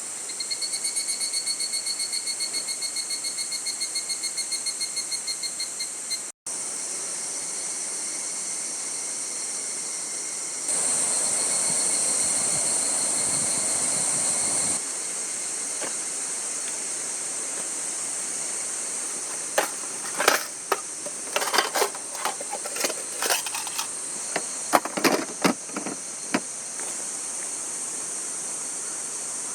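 Insects chirring in a steady high chorus, with a rapidly pulsing trill for the first six seconds. A louder rush of noise runs for about four seconds in the middle, and a series of sharp clicks and knocks comes in the second half.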